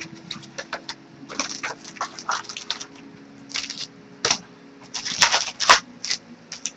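Irregular crinkling, clicking and short rips of card packaging being handled: a box of baseball card packs being opened.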